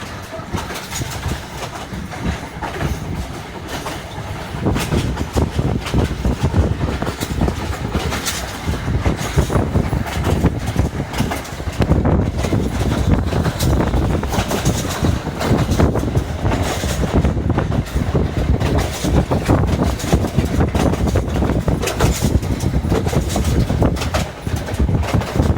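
Passenger train running on rails, with a dense run of clattering knocks from the wheels and cars. It grows louder about five seconds in and again near the middle.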